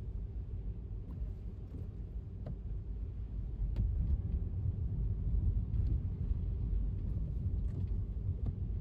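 Low, steady rumble of an electric car driving on wet pavement: road and tyre noise that grows louder about four seconds in, with scattered light ticks over it.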